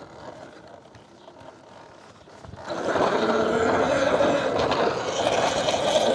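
Electric dirt bike with a Sotion motor being ridden over sand dunes. Fairly quiet for the first two and a half seconds, then a loud steady rush of riding noise, motor and wind together, sets in.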